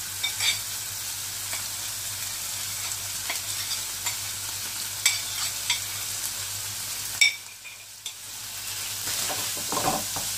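Fried mushrooms sizzling in a wok of onions and chili-garlic paste as they are tipped in and stirred with a wooden spatula, with a few sharp clicks. The sizzle dips for about a second some seven seconds in, then stirring scrapes pick up near the end.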